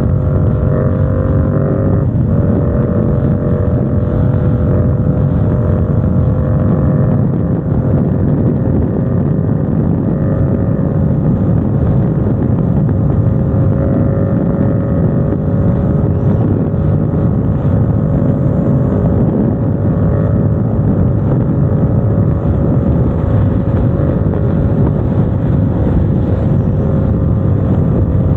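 Motorcycle engine running at a steady cruise, its tone holding nearly level, with wind noise on the microphone.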